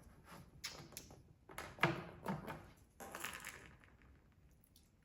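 Plastic takeout sauce cups and containers being handled, with a run of short crackles and clicks, the loudest near the middle.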